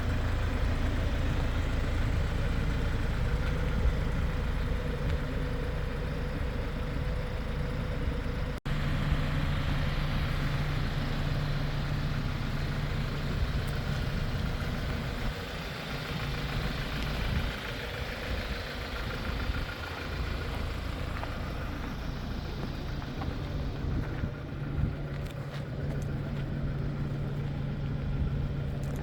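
Hyundai Porter 2 truck's diesel engine idling steadily, with a brief dropout about eight and a half seconds in.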